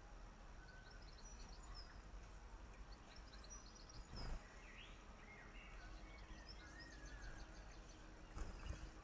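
Faint garden birds chirping and twittering, in short runs of quick high chirps and a few gliding or wavering calls. A brief low bump about four seconds in and another near the end are the loudest sounds.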